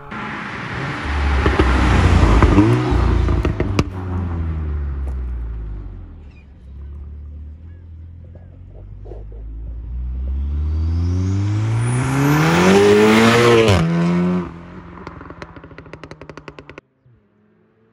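Tuned Volkswagen Golf 7 R's turbocharged four-cylinder engine pulling hard past, then falling in pitch as it eases off. Later it revs up again in a long rising pull and cuts off sharply, followed by a rapid string of exhaust pops and crackles on the overrun.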